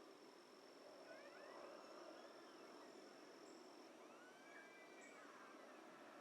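Faint evening forest ambience: a low steady hiss under a thin, steady high tone that stops about four seconds in, with a few faint rising-and-falling calls from distant wildlife.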